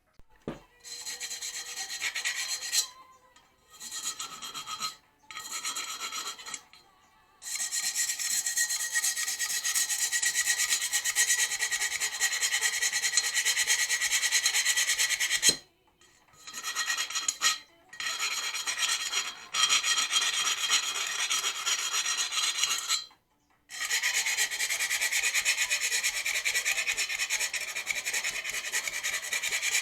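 Abrasive rasping and rubbing on metal in long passes. There are a few short stops and a couple of gaps of well under a second.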